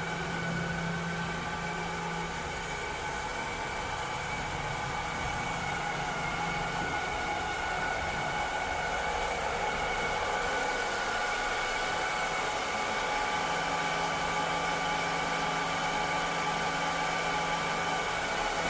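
Cleaning robot running steadily: an even whirring hiss carrying several steady whining tones, with a low hum that drops away in the middle and comes back.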